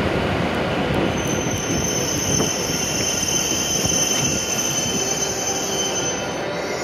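W7 series Shinkansen train rolling slowly alongside the platform as it brakes to a stop, with a high steady squeal from about a second in that fades out just before it halts.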